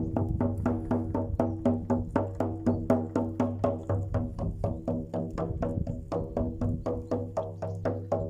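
Music of steady rhythmic drumming, about four even strikes a second, over a low held drone.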